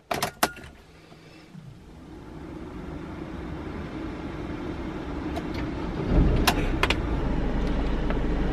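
Ignition key clicking in the lock, then a vehicle engine being started: the sound builds over a few seconds until the engine catches about six seconds in. It settles into a steady low idle, with a couple of sharp clicks.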